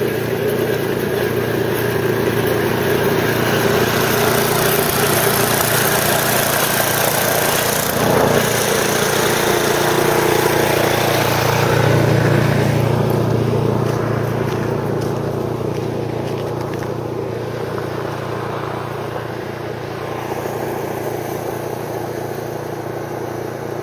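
Small gasoline engine of a snowblower running steadily, growing louder toward the middle and fading over the second half.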